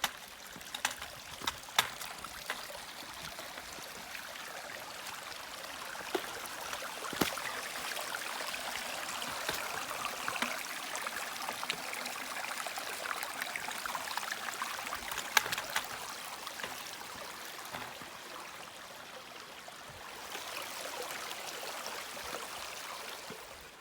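Small stream of water running and trickling steadily, with a few sharp ticks scattered through it.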